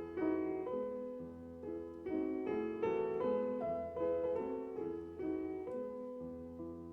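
Solo piano playing a slow, gentle classical piece, chords and single notes struck and left to ring, growing slightly softer toward the end.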